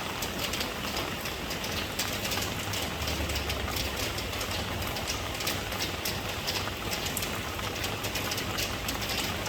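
Steady rain: a dense, even hiss of falling water with many small drop ticks, over a constant low rumble.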